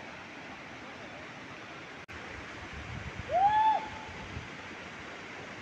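Steady rushing noise, with one short pitched call, rising then falling, a little over three seconds in.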